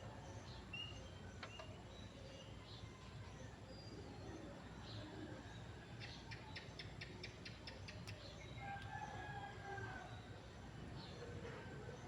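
Faint birds chirping in short, scattered calls, with a quick run of about nine ticks around the middle.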